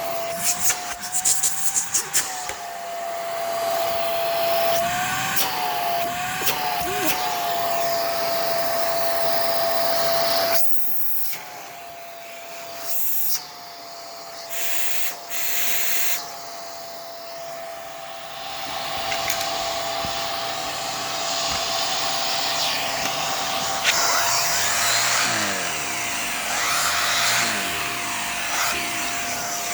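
Hoover WindTunnel PowerDrive Pet bagless upright vacuum running, its motor whine mostly steady with small wobbles in pitch. There are clicks and rattles in the first couple of seconds, and the sound drops and returns several times in the middle.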